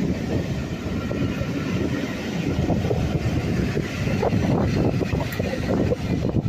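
Passenger train of Pullman coaches rolling past at low speed, a steady rumble of wheels on the track with scattered knocks, as the rear diesel locomotive passes near the end.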